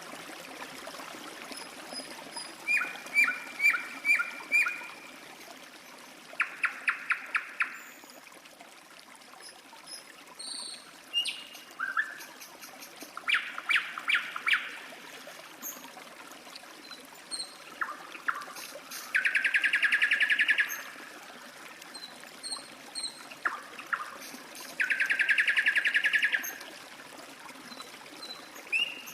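Songbirds singing over a steady trickle of running water: several short phrases of quick repeated notes, and two longer fast trills, one near the middle and one near the end.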